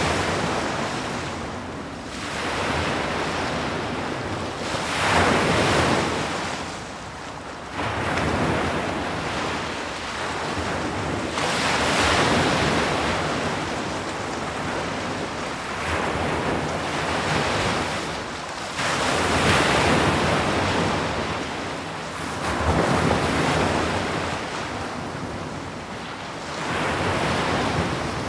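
Ocean waves breaking and washing onto the shore, the surf swelling and falling back every few seconds, with some wind.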